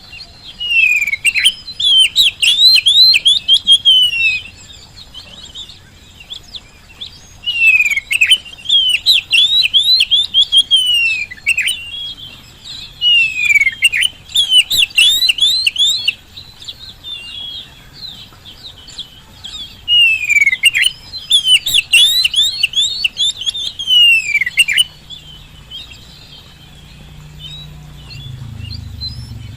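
Oriental magpie-robin in full song, giving four loud bouts of rapid, sweeping whistled phrases, each a few seconds long, with short pauses between. A low hum rises in the last few seconds.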